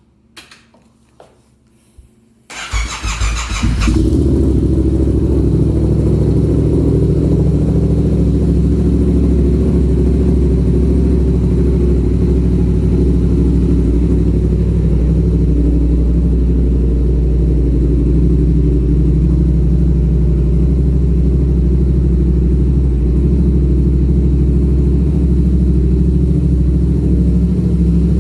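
Yamaha FZ-07 (MT-07) parallel-twin with an MGP Hotbodies aftermarket exhaust on a cold start: a few faint clicks, then the starter cranks about two and a half seconds in. The engine catches within about a second and a half and settles into a loud, steady cold idle.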